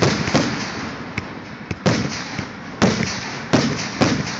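Aerial firework shells bursting: five sharp bangs over a few seconds, each trailing off in a rolling echo, with lighter pops between them.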